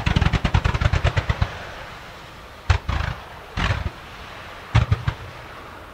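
Starmine fireworks sequence: a rapid volley of sharp launch bangs, about ten a second, for the first second and a half. Then three short bursts of bangs come about three, three and a half, and five seconds in.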